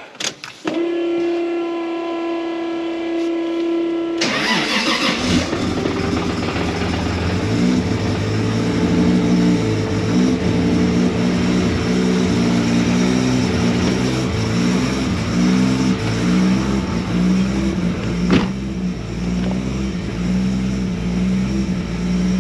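Toyota Supra being started: a steady whine for about three and a half seconds as the key is turned, then the engine fires about four seconds in and idles with an uneven low pulse. A single sharp click comes near the end.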